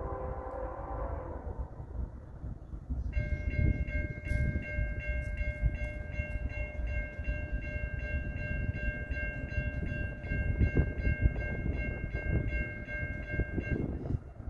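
Diesel freight locomotive's air horn sounding one long, steady chord blast of about ten seconds, over the low rumble of a passing freight train.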